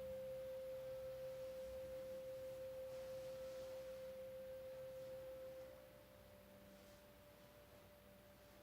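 A faint, pure steady tone like a tuning fork, held for about five and a half seconds, then giving way to a softer, slightly higher tone.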